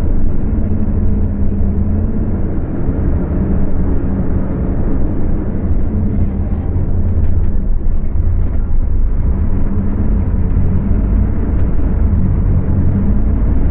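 Scania K250UB city bus engine running under way, a loud steady drone with only mild rises and falls. The uploader says this bus revs high and runs loud. It is picked up on a phone microphone.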